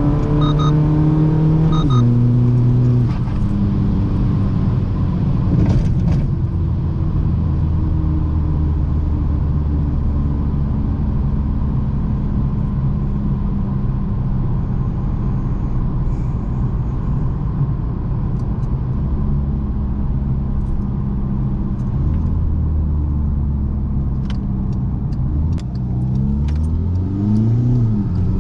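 Modified 2.0 TDI common-rail diesel of a VW Mk6 Golf GTD with an upgraded turbocharger, running under way. The engine note steps down about two seconds in, holds steady at cruise, then rises and falls with the revs several times near the end.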